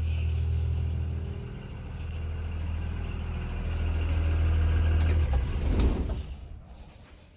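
Blue Bird Vision school bus engine idling with a steady low hum that stops about five seconds in, with a few clicks around then.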